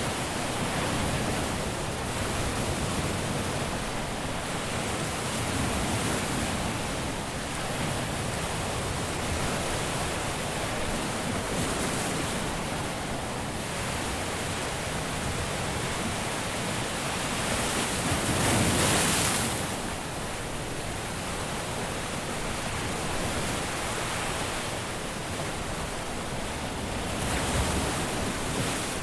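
Caribbean sea waves breaking and washing up a beach in a steady wash of surf noise, swelling and easing, with one louder wave about two-thirds of the way through.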